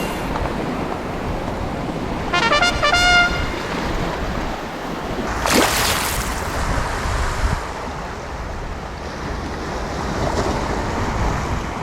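Waves washing against a rocky shore, with wind on the microphone. About two seconds in comes a brief pitched sound of a few notes, and halfway through a single sharp knock.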